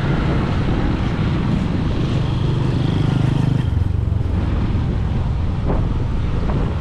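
Motorbike engine running while riding, with wind buffeting the microphone; the engine note drops about three and a half seconds in.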